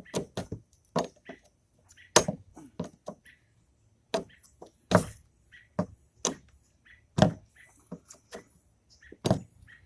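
Irregular sharp knocks and clacks on wood, about two a second, a few much louder than the rest.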